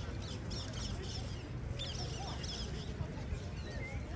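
Several small birds chirping and singing in quick, repeated short notes and trills, over a low steady rumble.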